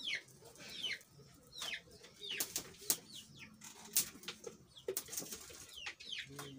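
Birds chirping in short, repeated calls that fall in pitch, over sharp clicks and snaps from firewood being handled and burning in an open cooking fire.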